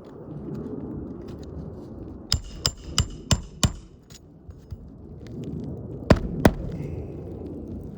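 Hammer striking roofing nails in asphalt shingles: a run of five blows, about three a second, with a metallic ring, then two more blows a couple of seconds later.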